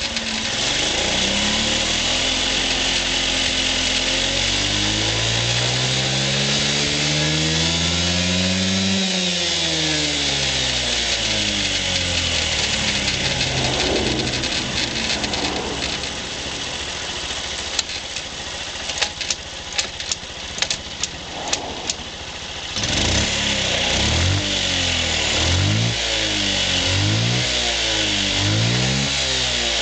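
Honda Giorcub scooter's AF54E engine running and being revved: one long slow rise and fall in pitch, then a quieter spell with a few sharp clicks, then a series of quick throttle blips near the end.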